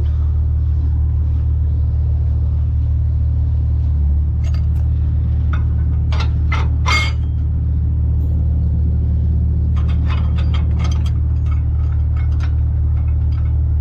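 Peterbilt 379's diesel engine running at a steady low idle, with scattered light clicks and clinks over it, most around the middle and again later.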